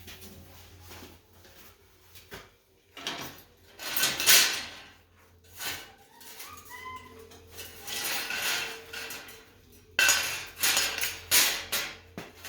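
Electric welder touching up a metal stove door: several short bursts of arc crackle, each up to about two seconds long, over a steady low hum.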